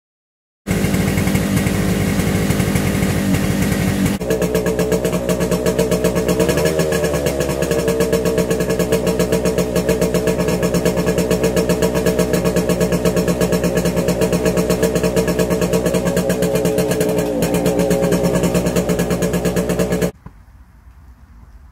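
1971 Yamaha YDS7's 250 cc two-stroke parallel twin running on only one cylinder, with a rapid, even exhaust pulse. The revs rise briefly about a third of the way in, and the engine cuts off suddenly near the end.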